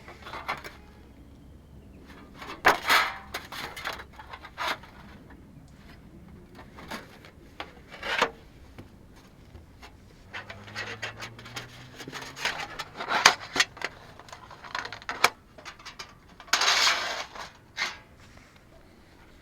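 Camping gear being handled: irregular rubbing, light knocks and clinks, with one longer scrape near the end.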